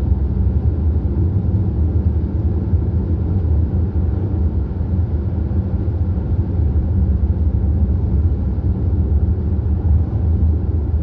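Steady low rumble of a vehicle under way, engine and road noise, with no change in speed.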